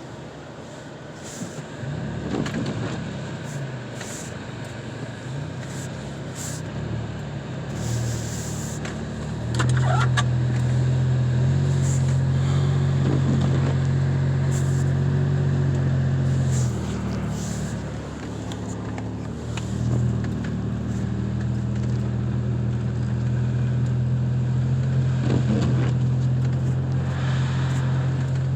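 Car engine running with road noise while driving; the engine note steps up and gets louder about a third of the way in, then eases back down past the halfway point, with scattered brief clicks over it.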